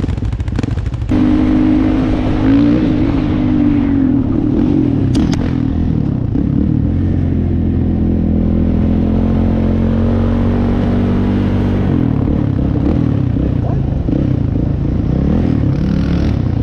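ATV engine running while riding a trail, its pitch rising and falling with the throttle and holding steady for several seconds mid-way. A sharp knock about five seconds in.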